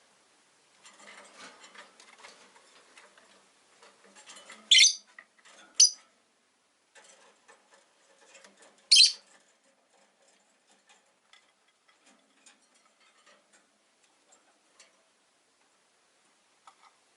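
Rosy-faced lovebirds giving three short, shrill, piercing chirps, two close together about five seconds in and one more a few seconds later, over soft scattered clicking and rustling from the cage.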